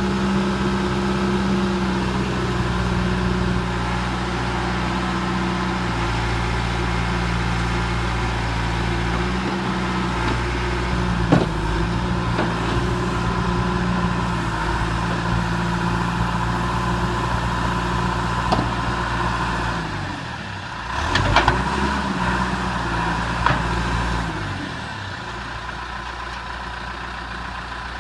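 John Deere 310G backhoe's four-cylinder diesel engine running, its speed shifting several times, with a few sharp metallic knocks. About two-thirds of the way in the revs drop and climb back, and near the end it settles into a quieter, steady idle.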